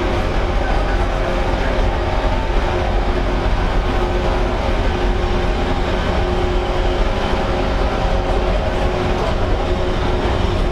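Onboard running sound of a JR 115-series electric multiple unit, heard inside motor car MoHa 115-1031: the traction motors and gearing give a steady whine of several tones over the low rumble of wheels on rail, at an even speed.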